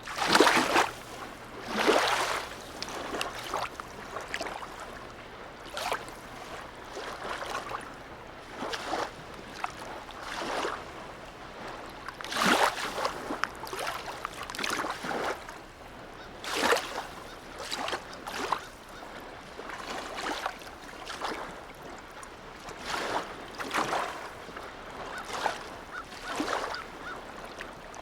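Small harbour waves lapping and slapping against the quay or moored boats in irregular splashes every second or two, the loudest two near the start.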